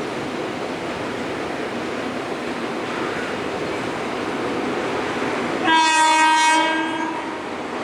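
Indian Railways train running with a steady rumble of wheels on track, and one horn blast about six seconds in that lasts roughly a second and a half.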